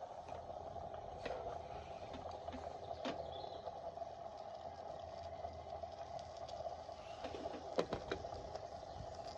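Machinator Steamfire model steam engine under steam, giving a steady hiss, with a few sharp irregular clicks, the loudest about three-quarters of the way through. The engine is being brought up to pressure and is almost running, not yet turning over evenly.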